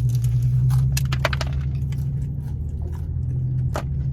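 Crunchy chewing and biting of a hard, overcooked Pizza Hut melt crust, with a few sharp cracks about a second in and again near the end, over a steady low hum.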